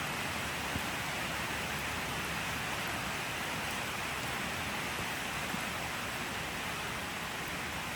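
Steady rain falling, an even dense hiss with no distinct drops standing out.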